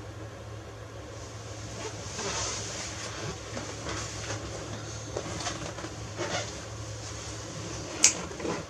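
Maxxfan Deluxe roof vent fan running steadily at 50% speed, blowing air into the van with a low hum. A sharp click sounds near the end.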